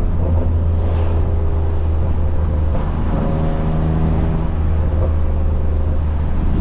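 A 2018 BMW M3 Competition's S55 twin-turbo inline-six running through catless downpipes, a single midpipe and an axle-back exhaust with its valves open, giving a loud, steady, deep drone while driving. Partway through the engine note grows fuller for a second or so, then settles back.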